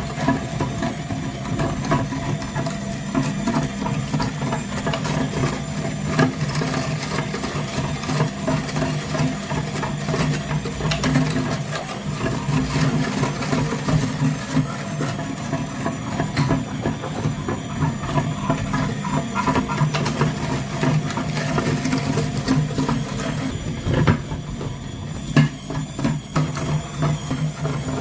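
A small motor running steadily, with a continuous hum and a busy stream of light clicks and rattles from its mechanism.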